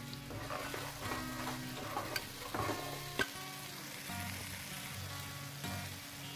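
Mustard paste sizzling as it fries in hot mustard oil in a non-stick pan, stirred and scraped with a flat spatula. The spatula knocks sharply against the pan twice, about two and three seconds in.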